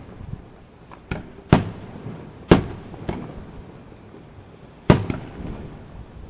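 Firework shells bursting in the sky: a sharp bang about a second in, two louder bangs a second apart, a smaller one after them and another loud one near the end, each followed by a rumbling echo.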